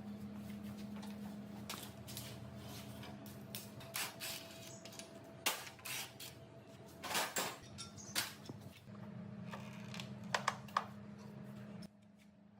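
Scattered sharp clicks and knocks of handled metal parts over a steady low hum that cuts out near the end.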